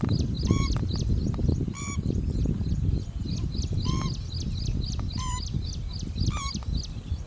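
Pheasant-tailed jacana calling: five short pitched calls, each with a slight upward hook, about one to two seconds apart. Fainter high chirps come between them, over a steady low rumbling noise.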